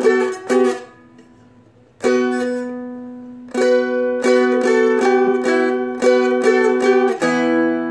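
Seagull Merlin M4 strummed: melody notes on the high string changing over steady open drone strings, in phrases with a brief pause about a second in. A busier run of strums and note changes near the end settles into a chord left ringing.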